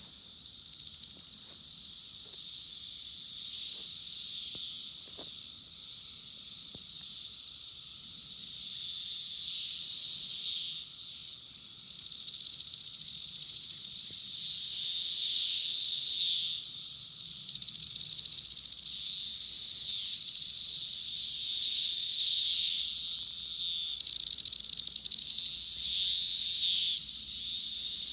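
A chorus of cicadas singing: a dense, high-pitched buzzing hiss that swells and fades every few seconds, peaking several times in the second half.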